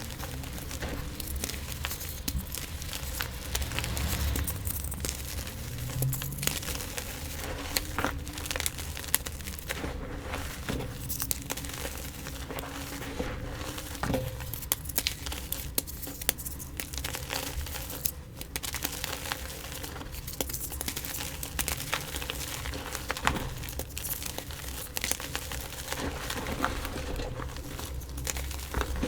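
Gym chalk being crushed and crumbled: continuous dry crunching and crackling with frequent sharp snaps.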